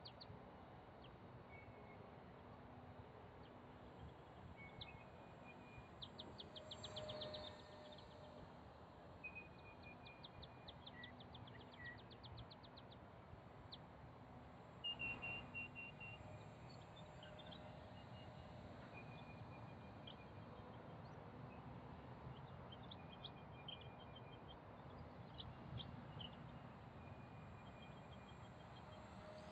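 Faint birds calling over a quiet background hiss: scattered short chirps and quick rattling trills of rapid high ticks, the loudest about 7 seconds and 15 seconds in.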